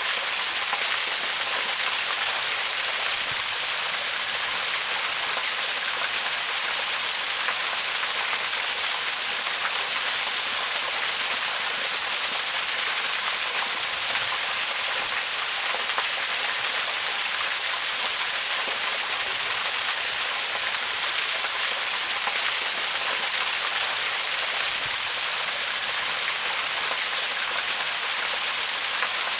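Waterfall: a steady, unbroken rush of falling water, bright and hissing, with little low rumble.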